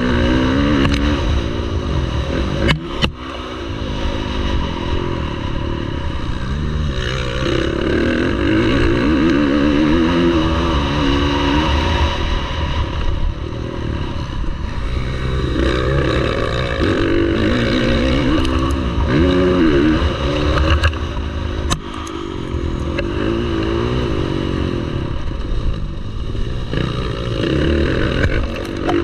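Motocross bikes racing on the track, their engines revving up and dropping back again and again as riders accelerate and shut off. A couple of brief sharp knocks cut through about three seconds in and again past the twenty-second mark.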